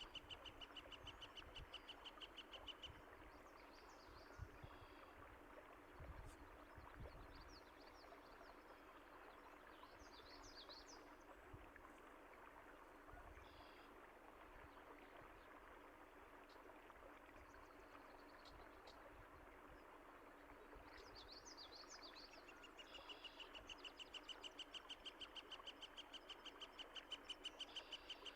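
Faint, steady rush of running water with small birds chirping now and then over it. A fast trill of rapidly repeated notes sounds at the start and returns about five seconds before the end.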